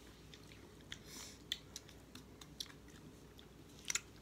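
Faint chewing with small wet mouth clicks and smacks as chicken is eaten by hand, ending in a quick pair of soft clicks as the hand reaches a plastic food container.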